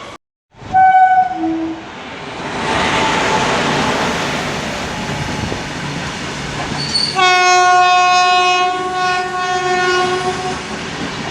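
A train passing with wheels clattering on the rails. Its locomotive horn gives a short blast about a second in, then a long, steady blast of about three seconds starting around seven seconds in.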